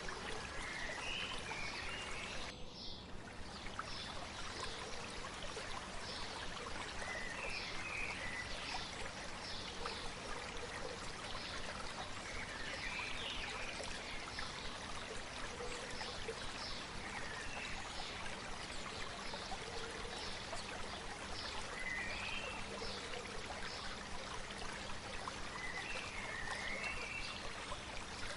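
A river or stream flowing steadily, with a bird singing short warbling phrases every four or five seconds over it. The water sound dips briefly about three seconds in.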